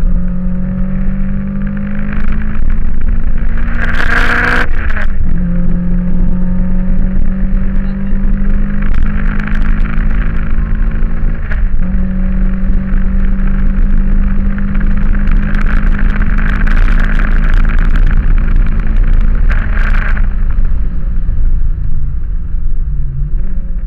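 Toyota Corolla AE86's 4A-GE 20-valve four-cylinder engine heard from inside the cabin, running at high revs under hard acceleration on track. The engine note holds steady and breaks briefly twice, about five and twelve seconds in, with a short rush of noise about four seconds in.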